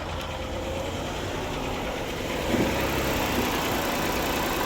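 2013 Ford Explorer's 3.5-litre V6 idling steadily just after being started, its rod bearings newly replaced to cure a knocking noise. The sound grows slightly louder about halfway through.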